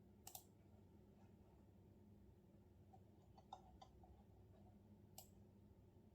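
Faint, sparse clicks from a computer keyboard: one keystroke near the start, a quick run of about four a little past halfway, and one more near the end, over a low steady room hum.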